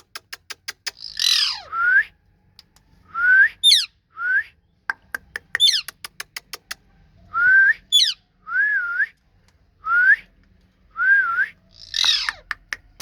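Ringneck parrot giving shrill calls that sweep steeply downward, mixed with short rising whistles repeated every second or so. Two quick runs of sharp clicks come about one and five seconds in.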